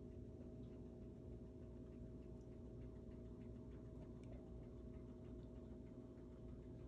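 Near silence: a faint, steady room hum with faint, irregular ticks scattered through it.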